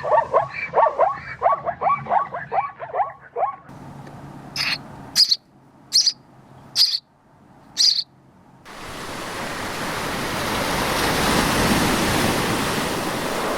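Bird calls: a rapid chattering run of short calls for about four seconds, then five short, high chirps about a second apart. After that a steady rushing noise like surf swells in and runs on.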